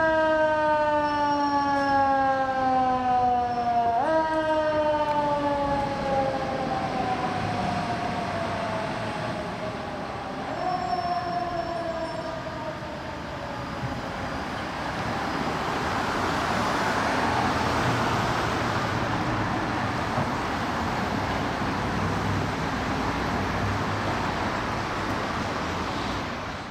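Fire engine siren, its pitch sliding slowly downward and kicked back up twice before fading away. After that comes the steady rushing noise of the passing vehicle and traffic.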